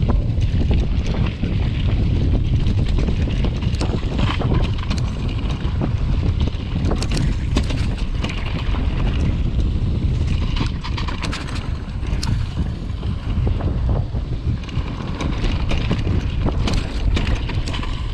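Wind buffeting the microphone of a camera carried on a moving mountain bike, a steady low rumble with scattered clicks and rattles throughout.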